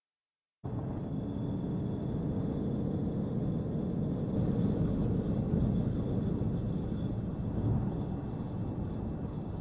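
Steady low vehicle rumble with a faint high whine, cutting in abruptly about half a second in.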